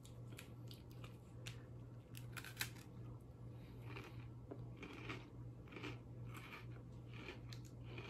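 A person chewing a soft, melted chocolate treat close to the microphone: sharp wet mouth clicks, then soft chewing smacks about every half second from a few seconds in. A steady low hum runs underneath.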